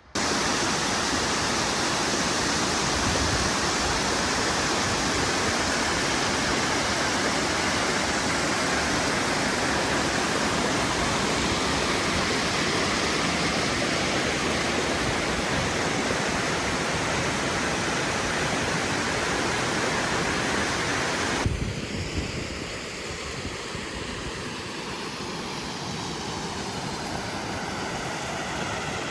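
Mountain stream falling in a waterfall: a loud, steady rush of water. About twenty seconds in, it gives way abruptly to a quieter background with the drone of an aircraft passing, its tone slowly sweeping.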